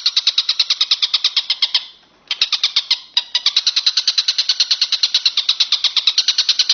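Walang kecek insect calling in a fast, steady trill of high, even pulses, about a dozen a second. It breaks off briefly twice, about two and three seconds in.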